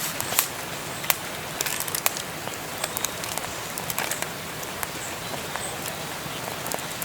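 Wood fire in a fire pit crackling, with sharp irregular pops and ticks, a few a second, over a steady hiss.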